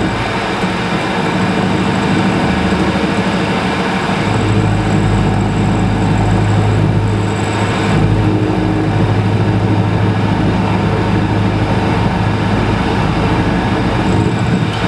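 A workshop machine tool running steadily with a loud motor hum and the noise of metalworking.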